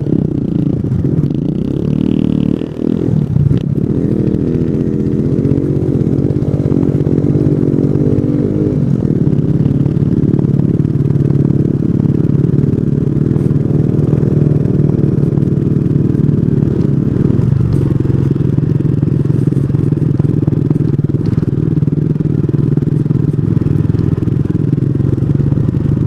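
Small 125cc single-cylinder motorcycle running on a trail ride, its engine note rising and falling with the throttle for the first several seconds, then holding steadier.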